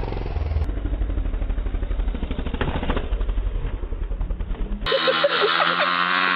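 Dirt bike engine running with a rapid, even firing pulse, across two cut-together clips. About five seconds in, it cuts to a steadier pitched hum with voices starting over it.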